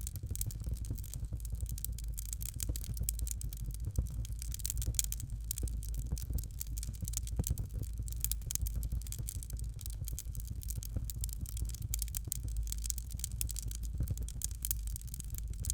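Fireplace fire crackling: a dense, irregular patter of small crackles and pops over a steady low rumble.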